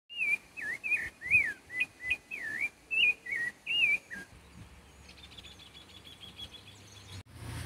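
A whistled tune: clear high notes sliding up and down in short phrases for about four seconds, then stopping, leaving only faint high chirps until a sudden cut near the end.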